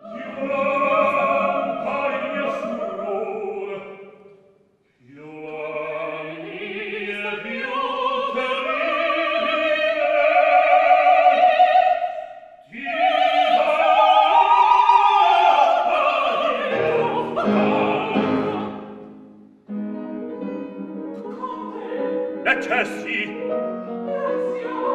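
Operatic singing in Italian, with long vibrato phrases broken by a short pause about four seconds in and a change in the line near the end.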